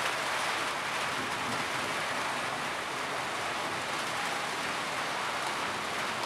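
Steady rain falling, an even noise that holds constant without let-up.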